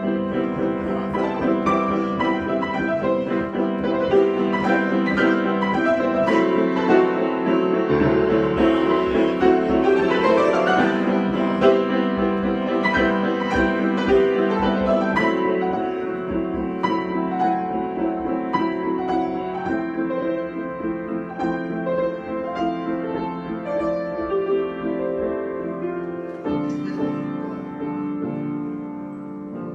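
Piano improvisation: chords and melody notes ringing with sustain, with a quick rising run of notes about eight to eleven seconds in.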